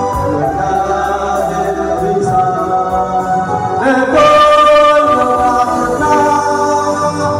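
Music with choral singing on long held notes, swelling louder with a higher sustained note about four seconds in.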